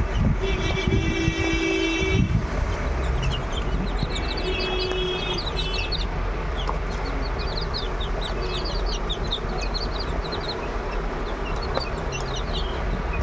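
A rooster crowing: one long crow beginning just after the start and a second call about four seconds in. Many short, high chick peeps follow through the rest, over a steady low background rumble.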